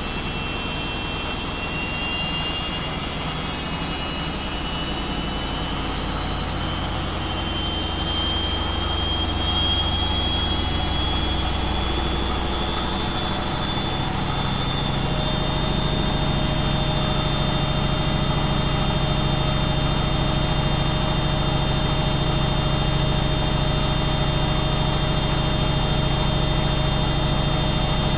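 Washing machine spinning up: the motor whine rises in pitch over about the first half, then settles into a steady high-speed spin with a constant hum.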